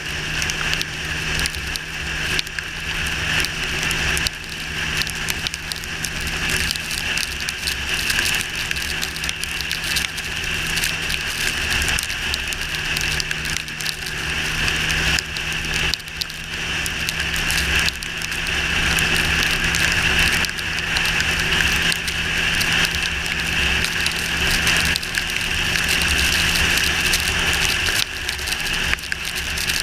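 Yamaha R6's inline-four engine running at a steady pace under way, with a constant hiss of wind and rain noise over it; the engine note changes near the end.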